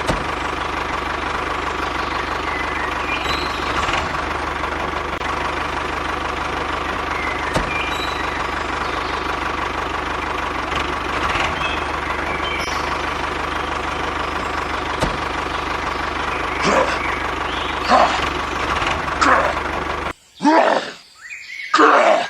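A motor running steadily with a constant hum and a few sharp clicks, cutting off abruptly near the end. After it, two loud drawn-out groaning calls.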